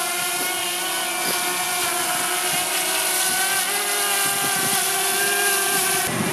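DJI Mavic Mini quadcopter's four small motors and propellers whining steadily, a buzzy multi-toned drone whine whose pitches waver slightly as the motors adjust; it cuts off abruptly about six seconds in.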